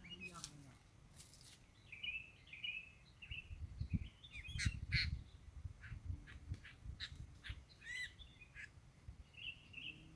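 Small songbirds chirping and trilling in short, repeated high phrases. A few sharp clicks and a low muffled rumble come in around four to five seconds in.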